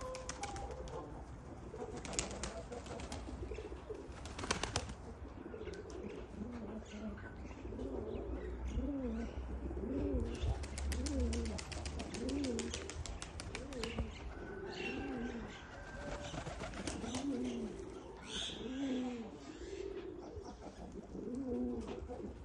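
Domestic pigeons cooing: a low coo that rises and falls, repeated about once a second through most of the stretch. There are a few sharp clicks in the first five seconds.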